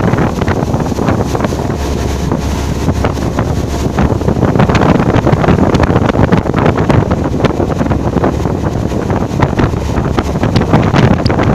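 Wind buffeting the microphone aboard a moving boat, a loud steady rumbling rush with crackles throughout.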